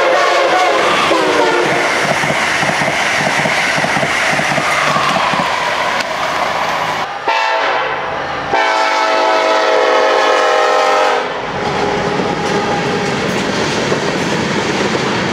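Trains passing at speed: a loud rush of rail noise with a tone that falls in pitch as the first train goes by. After an abrupt cut about seven seconds in, a train horn blows a steady chord for a few seconds. Then comes the rumble and clatter of a freight train rolling through a grade crossing.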